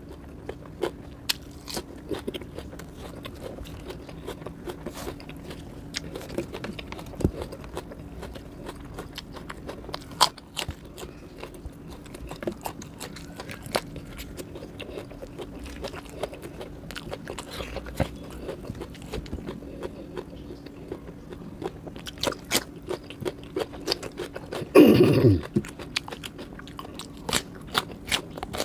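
Close-miked eating sounds: crisp bites and crunchy chewing of raw red onion and cucumber, with many sharp crunches and mouth clicks over a faint steady hum. Near the end a brief, loud vocal sound slides down in pitch.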